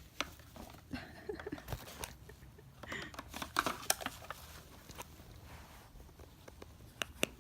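A macaw making scattered sharp clicks and taps with a few short, soft chirps and mutters, busiest around the middle, with two sharp clicks near the end.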